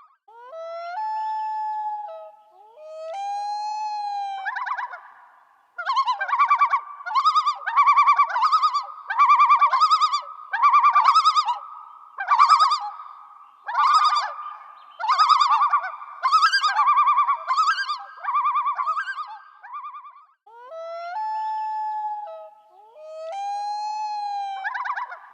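An animal calling: a few long held calls, then a run of rapid pulsed calls in bursts about one a second, then long held calls again.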